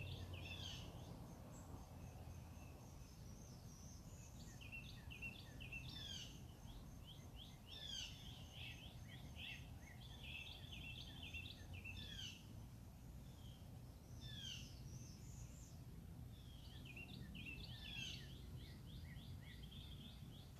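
Faint outdoor birdsong: several birds repeat short chirps and whistled phrases all through, with a thin, steady, high, dotted tone and a low background rumble.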